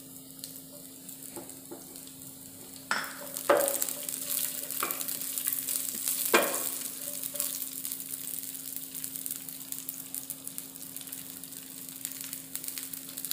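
Onion chunks, green chilli and chopped ginger-garlic sizzling in hot oil in a nonstick frying pan, stirred with a wooden spatula that knocks against the pan a few times. The sizzle grows louder about three seconds in, when the stirring starts.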